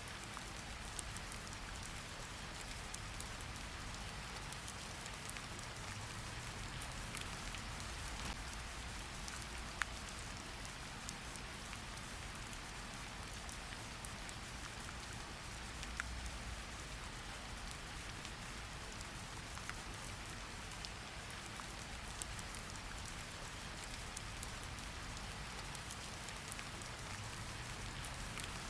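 Steady rain falling and pattering on a surface, an even hiss with scattered individual drop ticks, a few louder ones about ten and sixteen seconds in, over a soft low rumble.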